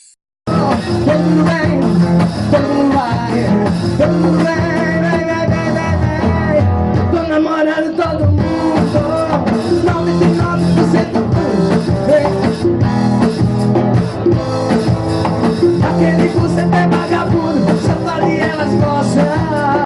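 A small live band playing music, starting abruptly about half a second in.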